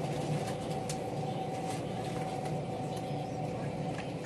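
Steady running noise inside a moving passenger train carriage: a low rumble with a faint steady hum over it.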